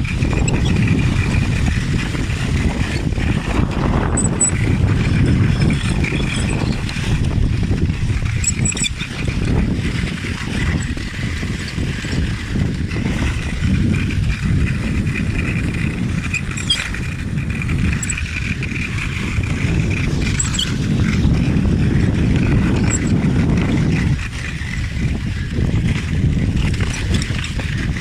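Wind buffeting the microphone as a rider moves along behind a traction kite at about 15–20 km/h, giving a steady rumble. A thin high whistle comes and goes over it.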